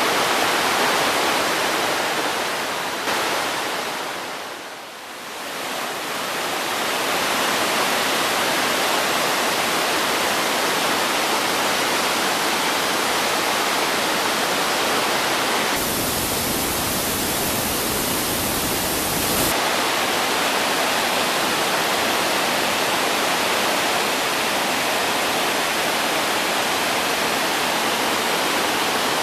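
Waterfall at normal flow, water rushing steadily down rock. The sound dips and thins briefly about five seconds in, and its tone shifts for a few seconds just past the middle.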